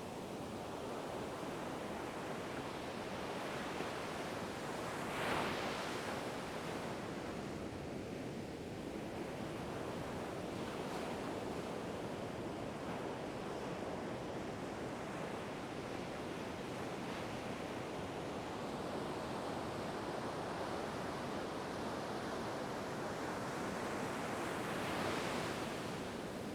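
Ocean waves washing onto a shore in a continuous rush of surf, with two louder breaking waves, about five seconds in and near the end.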